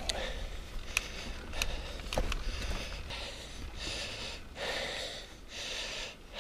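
Mountain biker breathing hard while pedalling uphill, puffing in and out about once a second in the second half, with a few sharp clicks in the first half.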